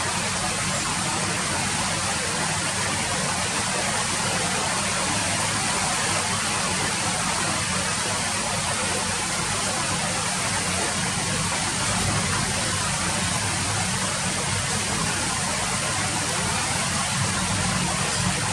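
Steady, heavy rain falling: a dense, even hiss with a steady low rumble underneath.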